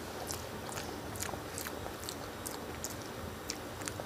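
Close-miked wet chewing of a mouthful of rice and fish curry, with short sharp mouth clicks about two to three times a second.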